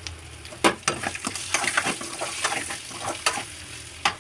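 Spatula stirring boiled eggs and spices in a pan of hot oil: repeated knocks and scrapes against the pan over a light sizzle, the loudest knock about a second in.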